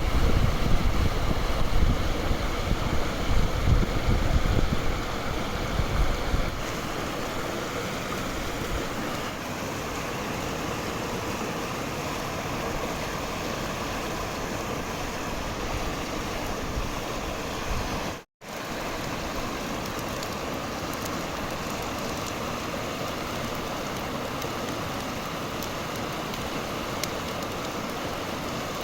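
Wind buffeting the microphone over a steady rushing hiss; the buffeting stops about six seconds in, and the sound drops out for an instant about two-thirds of the way through.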